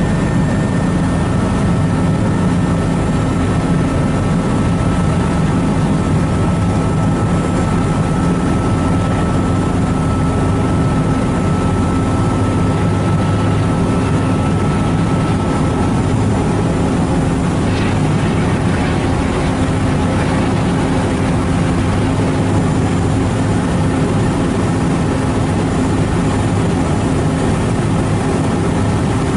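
Steady low drone of a harbour ferry's diesel engine, with a faint high whine that stops about halfway through.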